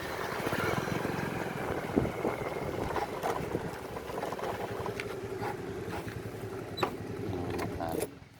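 An engine running steadily under wind noise, with scattered clicks and knocks; it cuts off suddenly near the end.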